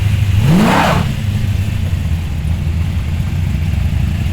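Arriving muscle cars' engines idling together in a low rumble. One engine is blipped briefly about half a second in, rising in pitch, before settling back into the steady rumble.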